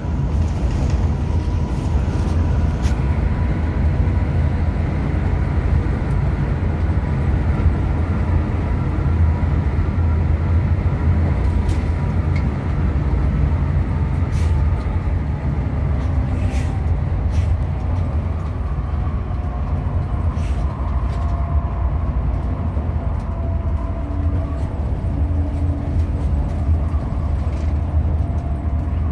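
Hino RM 280 bus under way: a steady low diesel drone with road noise and faint whining tones that drift slowly in pitch.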